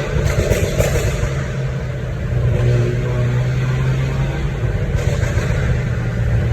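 VinFast Lux A 2.0's turbocharged four-cylinder engine running through an aftermarket XEX sport exhaust with the catalytic converter removed, holding a steady exhaust note. The note eases off about a second in and picks up again about two and a half seconds in.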